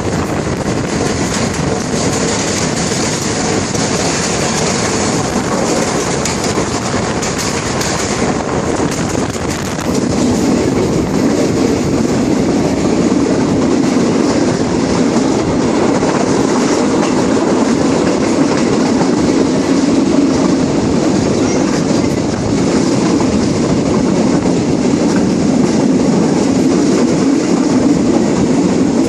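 Passenger train running along the rails, heard from on board: a steady rumble of wheels and carriages with clickety-clack. It gets louder and deeper about ten seconds in.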